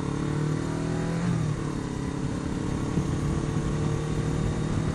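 Suzuki GS500F parallel-twin engine running under way at road speed over a steady rush of wind and road noise. The engine note rises slightly, dips about a second and a half in, then holds steady.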